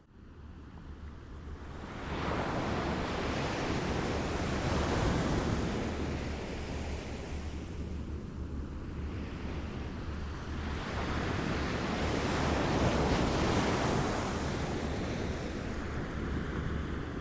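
Waves lapping on a shore: the water rises out of a brief lull and washes in two slow swells about nine seconds apart, over a steady low rumble.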